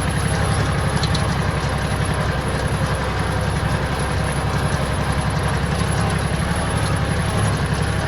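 Tractor engine idling steadily, with wind rushing over the microphone.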